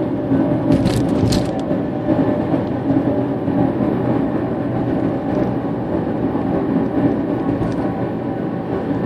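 Steady mechanical hum of a running machine, several steady low tones over a rough noise, with a few short clicks about a second in.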